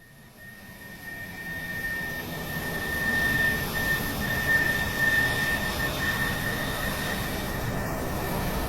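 Cessna Citation 525 business jet's turbofan engines running: a steady high whine over a broad rush of air noise, swelling over the first few seconds and then holding steady.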